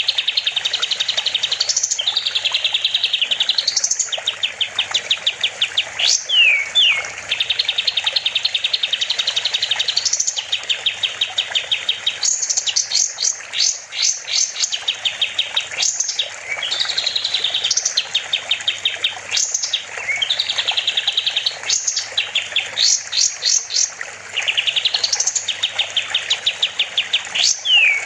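Kapas tembak songbird singing in full voice: continuous rapid trills and fast-repeated notes broken by quick rising sweeps.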